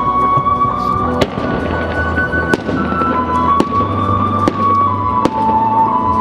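A fireworks display set to music: shells bursting and crackling under loud music with held melody notes, and sharp clicks about once a second.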